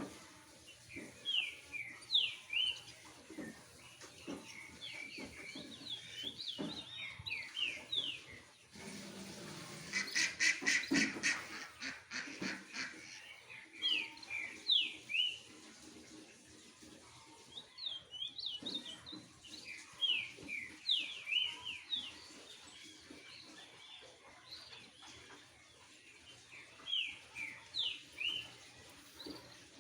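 Birds calling, with bursts of short, sharply sweeping chirps repeated in clusters, and a louder, harsh, rapidly pulsed call about ten seconds in.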